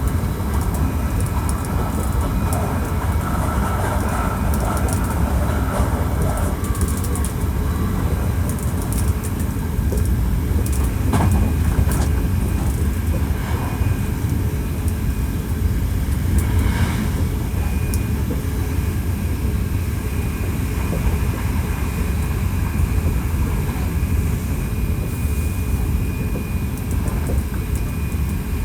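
Hankyu 1300 series electric train with Toyo IGBT-VVVF drive, heard from inside the car while running: a steady rumble of wheels on rail, with faint steady high tones and an occasional click from the track.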